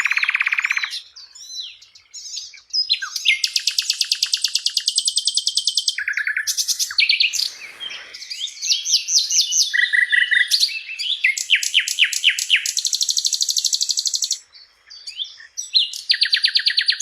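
A sikatan londo flycatcher singing a fast, varied song of rapid trills, buzzy rattles and chirps, with a few short pauses.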